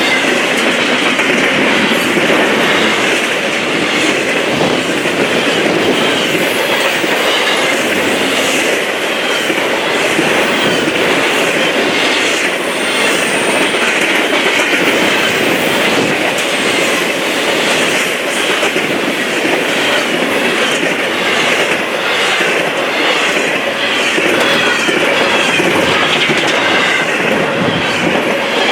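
Freight train cars rolling past at speed: a loud, steady rush of steel wheels on rail with clickety-clack.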